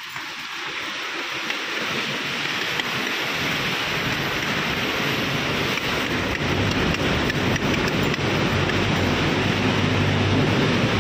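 Steady hiss of rain that grows louder, with a low rumble joining about six seconds in.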